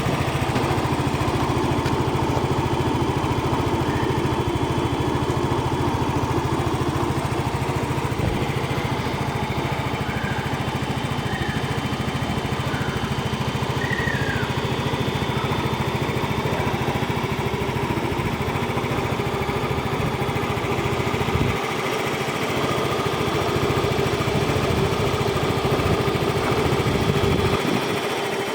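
Yamaha XC115 Delight scooter's single-cylinder four-stroke engine idling steadily.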